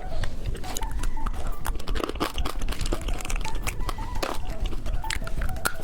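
Plastic candy wrapper crinkling and tearing, with a run of sharp crackles and rustles.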